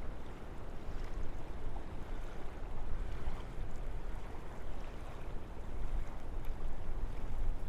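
Wind blowing through a forest: a steady rushing noise, heaviest in the low rumble, that swells and eases in uneven gusts.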